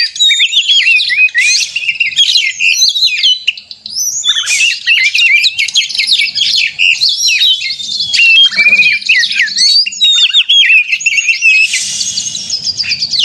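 Oriental magpie-robin (kacer) singing a loud, rapid, unbroken stream of varied whistles, chirps and harsh trills, with a brief dip about four seconds in. This is the agitated, aggressive song of a bird worked up to fight.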